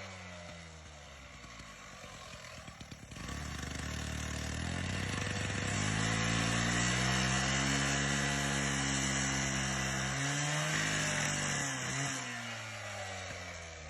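Two-stroke gas demo saw (cut-off saw): the engine idles down, revs up to full speed about three seconds in and runs as the blade cuts down the side of a sucker rod guide, then the revs fall away near the end.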